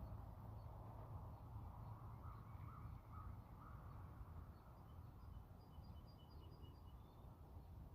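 Faint bird calls over a low outdoor rumble. About two seconds in, a bird gives four short calls in a row. Later, a small bird sends out a quick string of high, thin chirps.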